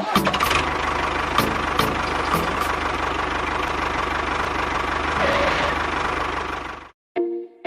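A small motor running steadily with a fast, even chugging pulse, then cutting off suddenly about seven seconds in.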